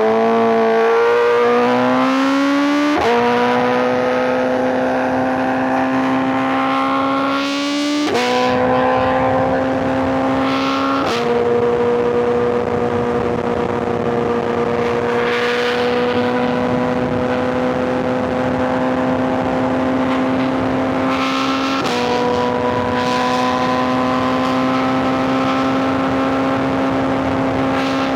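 Inline-four superbike engine and exhaust under way, pulling through the gears: the pitch climbs, steps at each shift about 3, 8 and 11 seconds in and again near the end, and between shifts rises slowly at high revs.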